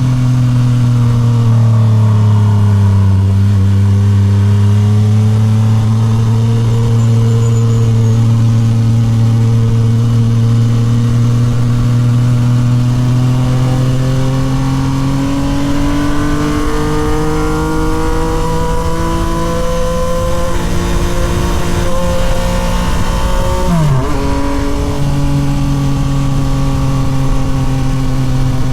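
Yamaha MT-09 SP's three-cylinder engine running through a Toce full aftermarket exhaust while riding. Its pitch falls over the first few seconds, then climbs slowly and steadily. It dips suddenly about 24 seconds in and then holds steady, over a low rumble of wind and road noise.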